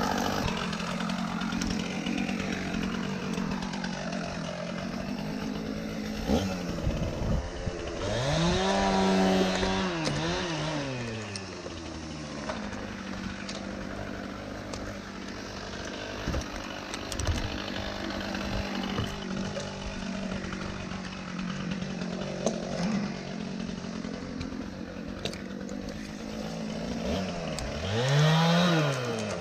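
Two-stroke chainsaw running with a steady note, revved up and back down about a third of the way in and again near the end.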